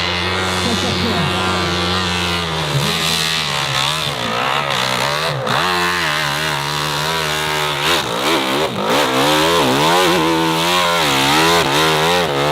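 Off-road motorcycle engine running at a fairly steady speed, then revved up and down over and over in quick throttle blips, until it cuts off abruptly at the end.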